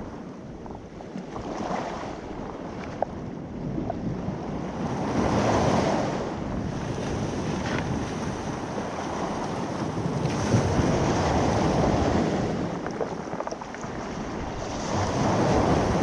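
Sea waves washing onto the shore, the rush of surf swelling and fading about every five seconds, with wind rumbling on the microphone.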